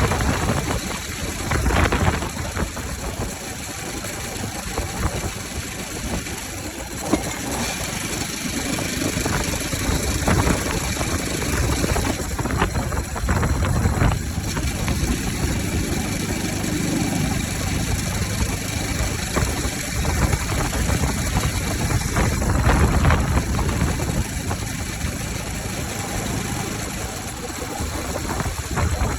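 Bajaj Pulsar 200 single-cylinder motorcycle engine idling with its air filter removed, giving a few short revs along the way.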